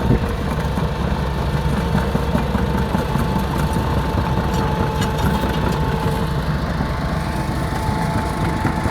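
Heavy diesel machinery engine running steadily, with a thin, steady whine over the low engine rumble.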